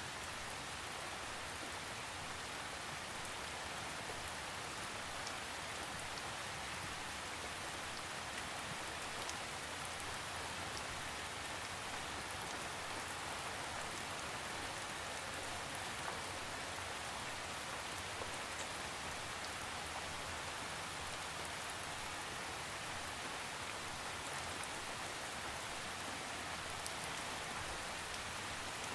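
Steady rain falling on a surface, an even hiss with scattered small drop ticks and no thunder.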